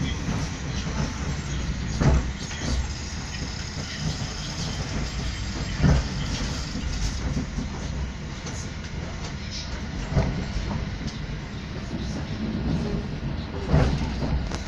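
Train carriage riding on the rails, heard from inside: a steady low rumble with four loud knocks from the wheels on the track, about four seconds apart.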